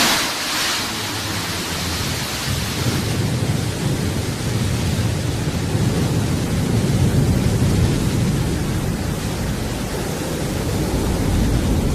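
New Shepard rocket's BE-3 hydrogen engine firing at ignition and liftoff. It starts suddenly with a bright hiss, which over the first few seconds settles into a steady, deep rumbling noise.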